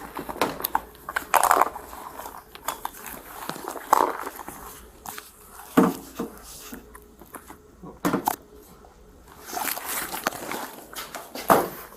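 Rustling and crinkling with scattered clicks and knocks as items in a purse are handled and searched, with a few sharper knocks about six, eight and eleven and a half seconds in.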